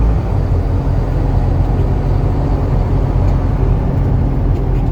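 2020 Hino 155 box truck driving, heard from inside the cab: its diesel engine and tyres make a steady low rumble.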